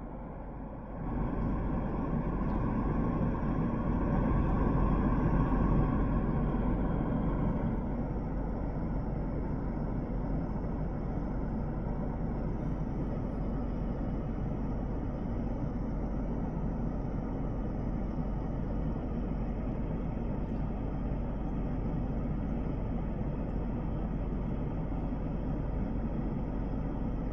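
A motor running steadily with a low rumble. It grows louder about a second in, is loudest for several seconds, then settles to an even level.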